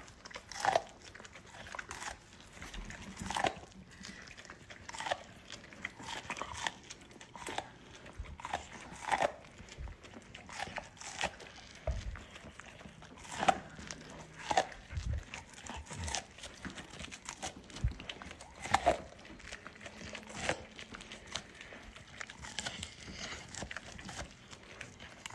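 Golden retriever chewing and crunching on a corn cob, with irregular crunches about once a second.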